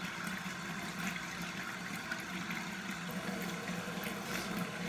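Tap water running steadily into a sink, left on, with a few faint small clicks.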